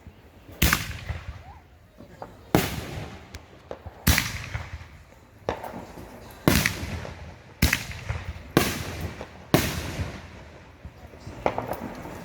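Consumer fireworks going off in a backyard show: about nine sharp bangs, roughly one a second, each trailing away before the next.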